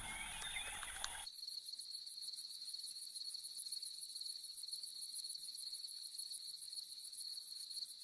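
Night insect chorus: a steady high-pitched trill with a faster, even higher pulsing over it. It comes in abruptly about a second in, as the previous scene's sound cuts off.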